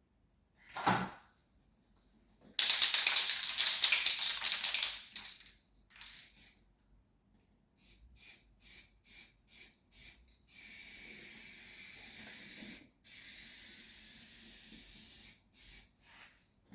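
Spray paint hissing onto a model locomotive body: a loud, coarse burst first, then a string of short bursts, then two long steady passes and a few short bursts near the end. A single thump comes about a second in.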